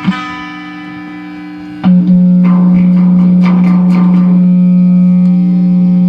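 Guitar music: a few plucked notes, then about two seconds in a loud low note comes in and is held, with picked notes over it.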